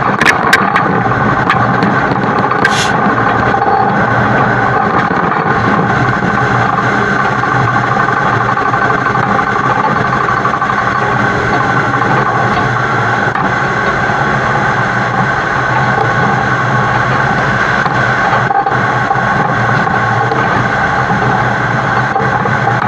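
Heavy-haul truck's engine running steadily, with road and wind noise, heard close up from a camera mounted on the truck's side. A few sharp clicks come about half a second in, and a brief higher-pitched squeal near three seconds.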